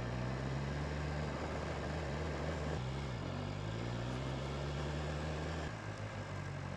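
BMW S1000RR's inline-four engine running steadily while riding, with wind noise. The engine note dips briefly about three seconds in, and its deepest part drops away near the end.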